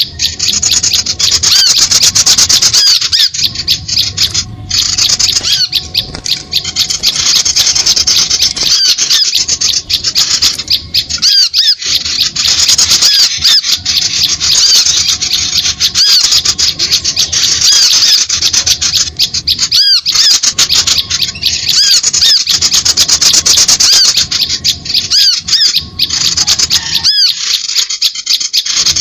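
Dense, unbroken chorus of small birds' rapid, high-pitched chirps and twitters, a bird-lure call recording played to draw small birds in to birdlime.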